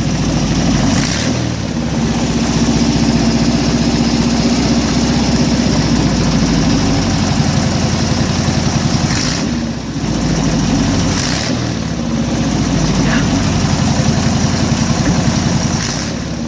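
Rebuilt air-cooled Volkswagen single-port flat-four engine running for its break-in, its speed and loudness rising and easing a little, with a brief dip about ten seconds in.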